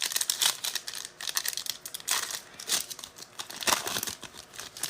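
Foil wrappers of football trading-card packs crinkling and tearing as the packs are ripped open by hand, in a run of irregular crackles.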